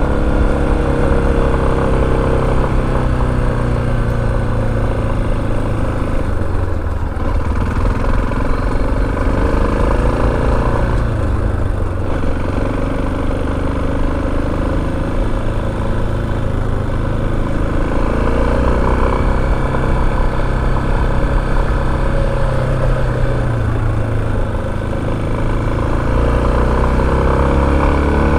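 Motorcycle engine running while riding, its pitch rising and falling as the throttle opens and closes, over a steady rush of noise.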